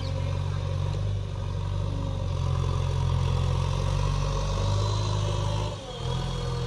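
Heavy diesel engine of a backhoe loader or tractor running steadily, with a brief dip about six seconds in.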